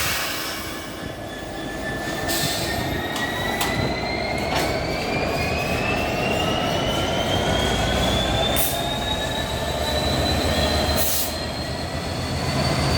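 Freight train pulling away and gathering speed, a whine rising steadily in pitch throughout, over a low rumble and an occasional sharp click.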